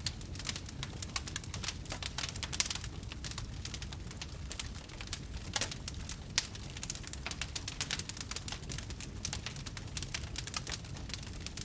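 Wood campfire crackling, with many small irregular pops and snaps and a few sharper ones over a low steady rumble of burning.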